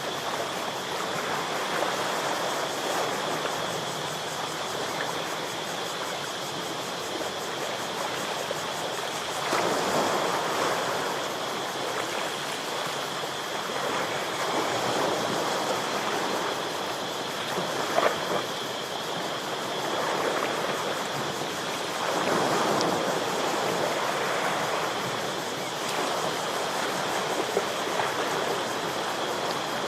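Ocean waves breaking and washing against shoreline rocks, swelling and falling every few seconds. A steady high-pitched tone runs throughout, and there is one sharp knock about eighteen seconds in.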